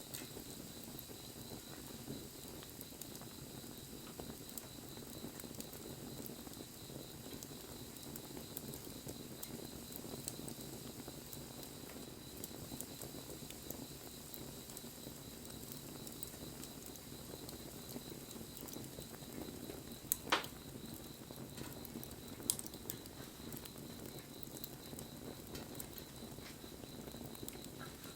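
Wood bonfire burning, crackling steadily with small snaps, and a loud sharp pop about two-thirds of the way through followed by a smaller one.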